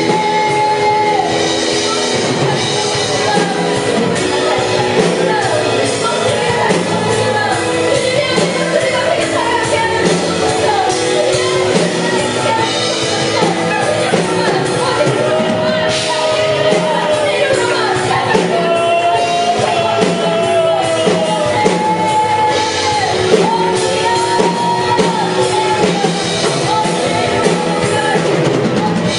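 Live worship band playing a song with singing over drums and instruments.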